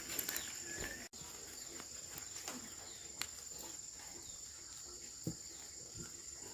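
Steady high-pitched insect trill, crickets, with a few scattered sharp clicks over faint background noise.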